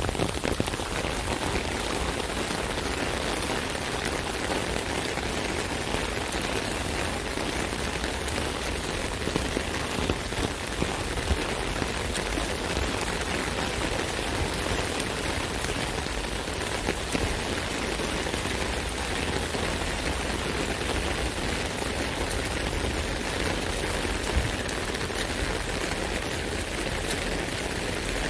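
Steady rain pattering on an umbrella canopy, an even wash of dense small drop hits.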